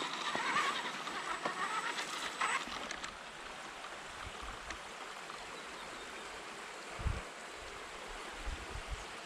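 A stream's water running steadily. Over the first two and a half seconds an RC car's electric motor whines over it, and there is a single low thump about seven seconds in.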